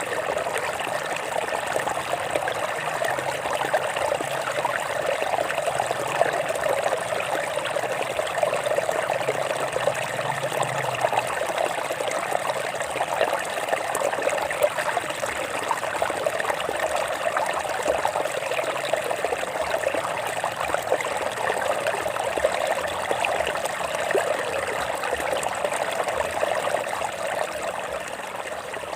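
Stream water trickling and splashing over rocks, a steady babbling flow.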